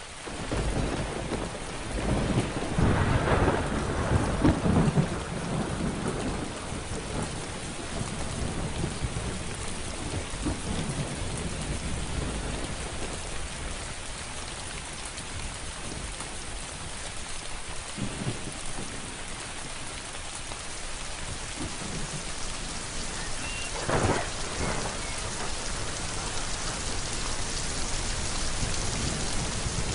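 Steady rain falling, with a long rolling thunderclap in the first few seconds, loudest about three to five seconds in, and a shorter, sharper crack of thunder about twenty-four seconds in.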